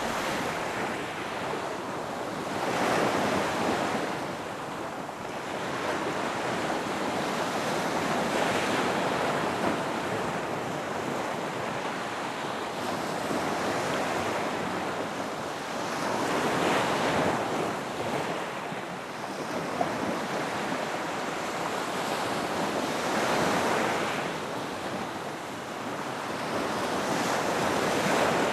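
Ocean waves breaking and washing up a beach, the surf swelling and easing every several seconds.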